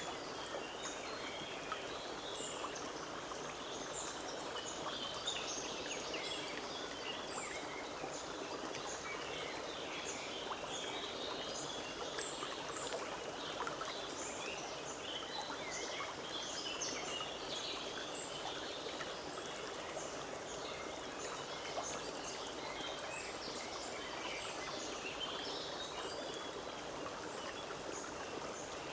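Forest stream babbling steadily, with small birds chirping and singing over it throughout.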